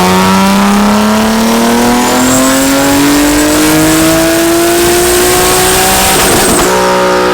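Single-turbo Nissan 370Z's 3.7-litre V6 on a dyno at full throttle, its pitch climbing steadily through the revs with a faint high turbo whistle rising above it. About six and a half seconds in, a short loud rush of noise breaks in, and then the engine holds a steadier, higher note.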